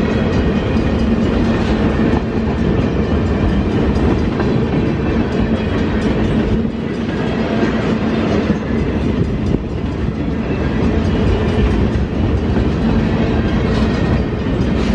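A train passing close by: a steady, loud rumble of rolling cars, with the wheels clacking over the rail joints.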